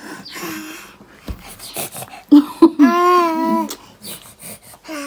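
A young child's whining cry: one drawn-out, steady-pitched wail of about a second, starting a little past the middle, just after a couple of sharp loud sounds, with small murmurs and mouth noises around it.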